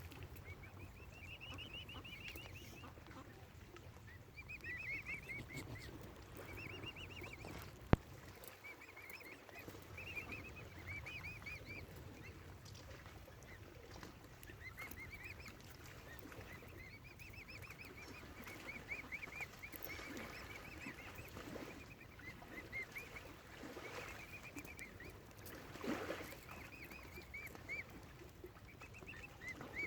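Waterfowl calling: short runs of quick, high call notes repeating over and over. A single sharp click comes about eight seconds in.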